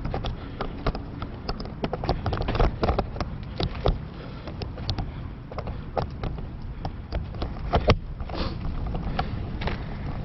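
Bicycle in motion, heard through a camera mounted on the bike: dense, irregular clicking and knocking from the bike and mount over the road surface, over a steady low rumble of wind and tyres.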